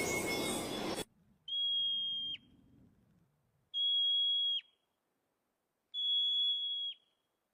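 A bird calling three times: each call is one long, level, high whistle that ends in a quick downward flick, about two seconds apart. Before the first call, a noisy stretch cuts off abruptly about a second in.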